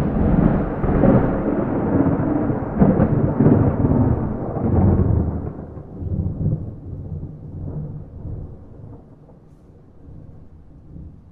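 Thunder with no rain: a sudden crack out of silence followed by a loud, low rolling rumble that swells several times over the first five seconds, then slowly fades to a quiet grumble.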